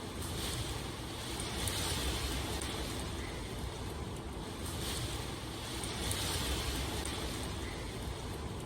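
Steady rushing water ambience that swells and eases every two to three seconds, with a low rumble underneath.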